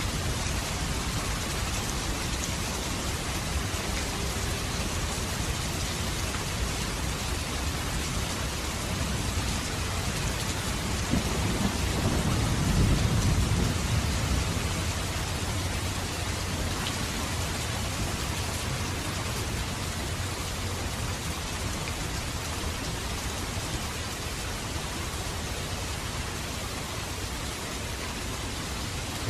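Steady heavy rain falling, with a low roll of thunder rising and fading about halfway through.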